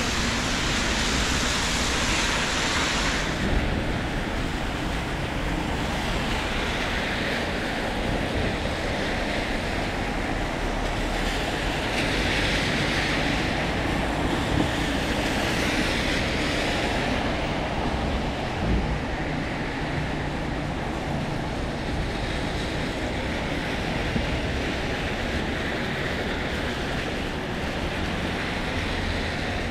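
Steady rain on a city street: a continuous wash of hiss, brighter for the first few seconds.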